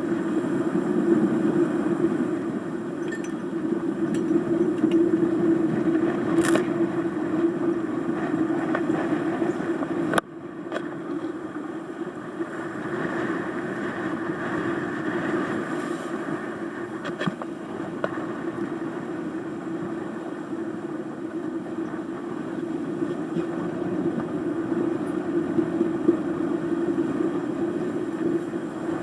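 Steady rush of gale-force wind and water aboard a sailing yacht running fast downwind, with a sharp click and brief drop about ten seconds in.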